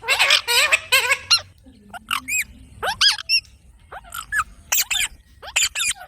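Several green parrots calling in quick, sharp squawks and shrill rising and falling shrieks, a dense burst in the first second and more clusters about two, three and five seconds in.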